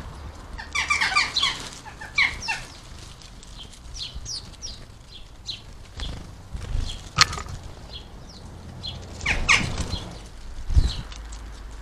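House sparrows chirping in short clustered bursts, mixed with low wing flutters and thumps. A sharp tap comes about seven seconds in.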